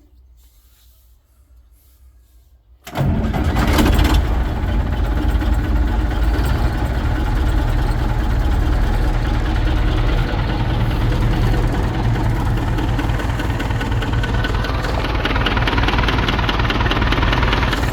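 UTB U650 tractor's 4.8-litre D110 four-cylinder diesel engine, cold-started: it catches suddenly about three seconds in and then runs on steadily at idle.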